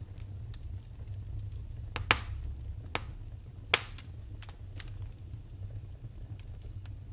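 Wood fire crackling in a fireplace: scattered small crackles, with two sharp loud pops about two and nearly four seconds in, over a steady low rumble.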